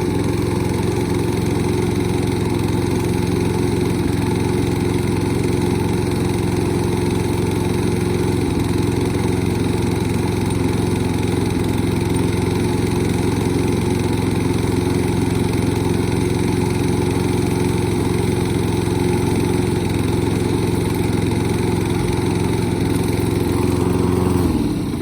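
Toro lawn mower's small engine running steadily at a constant speed, then shut off near the end, its pitch dropping as it winds down to a stop.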